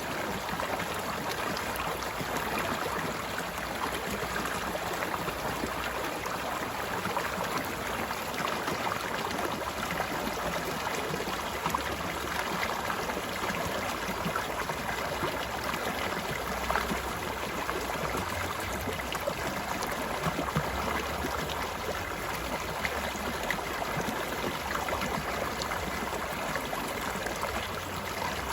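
Flowing stream, a steady, unbroken babble of running water.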